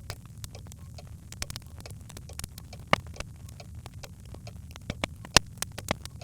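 Birch logs crackling in a fireplace: irregular pops and snaps over a steady low rumble, with two sharper pops, about three seconds in and again near the end.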